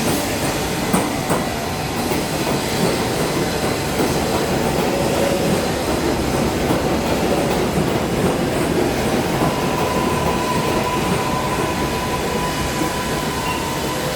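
New York City subway train running through the station, a steady loud rumble of wheels on rail with a few sharp clicks over the rail joints about a second in. A thin, steady wheel squeal comes in about two-thirds of the way through.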